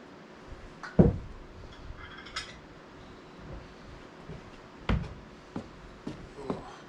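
Dishes and cutlery handled on a table: two solid knocks, about a second in and about five seconds in, with lighter clicks near the end.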